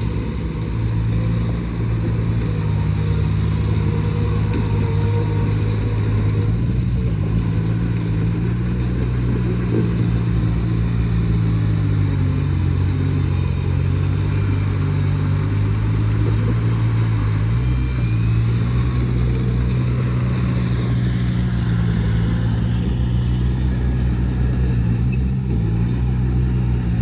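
Heavy diesel engine of earthmoving machinery running steadily, its pitch dipping and rising slightly a few times.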